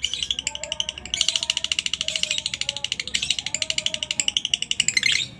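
Lovebird giving its long 'ngekek' chatter: a fast, unbroken trill of high, sharp chirps. It breaks off briefly about a second in, resumes, and stops just before the end.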